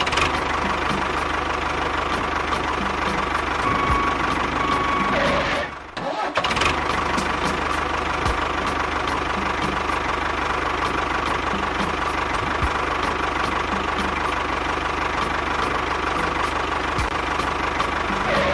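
A small engine or motor running steadily, with faint regular ticking, briefly cut off about six seconds in and then running on.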